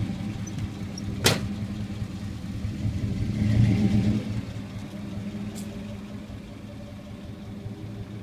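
1990 Chevrolet Caprice Brougham LS V8 running through its exhaust as the car pulls away, swelling as it accelerates a few seconds in, then fading as it drives off. A sharp knock about a second in.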